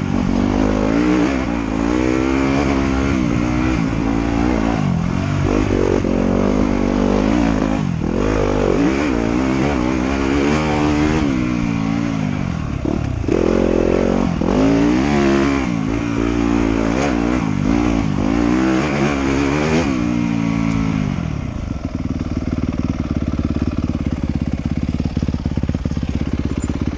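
Off-road motorcycle engine ridden on a trail, revving up and dropping back over and over as the throttle is worked. About two-thirds of the way through it settles to a steady, lower idle.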